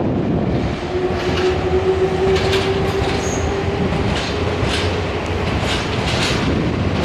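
Nankai electric train running past at the station, its wheels clicking over the rail joints in an uneven run of clacks over a steady motor hum and rolling noise.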